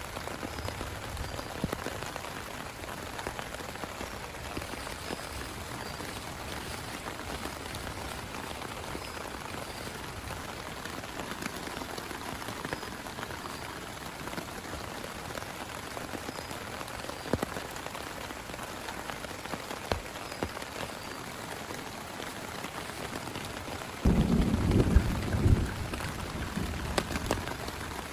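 Steady heavy rain falling, with scattered sharp drop ticks. Near the end a sudden loud low rumble lasts about two seconds.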